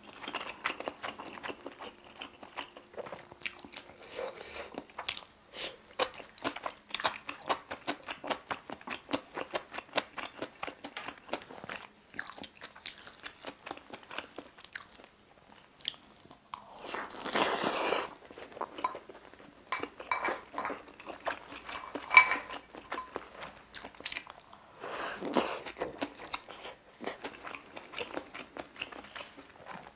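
Close-miked mouth sounds of chewing a mouthful of rice and rolled omelette: dense, irregular wet smacks and clicks. Two longer noisy bursts come about halfway through and again later, and there is one sharp loud click, like a utensil striking a dish, about three-quarters of the way in.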